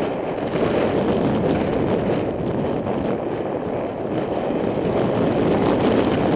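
Steady wind rushing over the microphone of a camera riding along on a moving bicycle.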